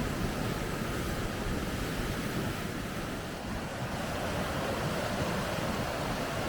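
Steady rush of water running through river rapids, an even noise without breaks.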